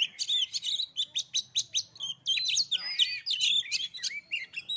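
Oriental magpie-robin (kacer) singing: a rapid, unbroken run of varied whistled notes, chirps and short trills.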